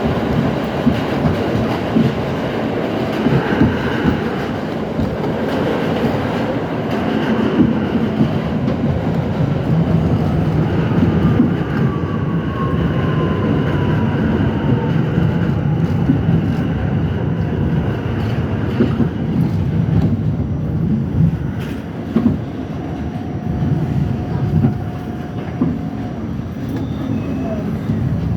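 R68 subway train running on the rails, a steady loud rumble of wheels with rapid rail clicks. A faint falling whine comes about midway and a short steady tone near the end.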